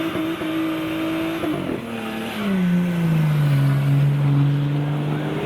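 Car engine held at high revs during a burnout. The note breaks and drops about a second and a half in, then settles into a lower, louder steady note with the wheels still spinning.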